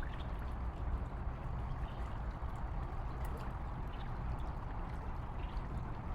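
Water flowing steadily, an even rushing sound with a low rumble beneath.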